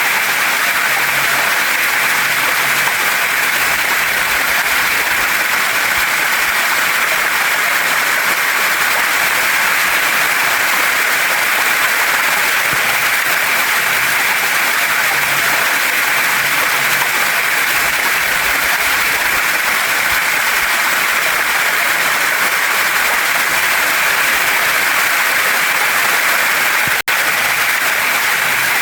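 Waterfall and stream water rushing over rocks: a steady, even hiss. It cuts out for a split second near the end.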